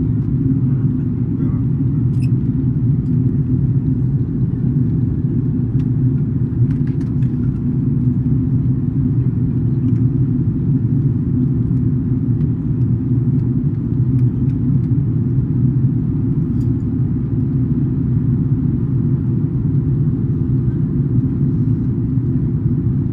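Steady low rumble inside an Airbus A330-200's passenger cabin in flight during the descent for landing: engine and airflow noise, with a few faint clicks.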